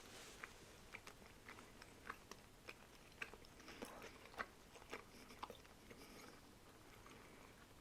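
Faint chewing: scattered soft mouth clicks and smacks of someone chewing a piece of gum.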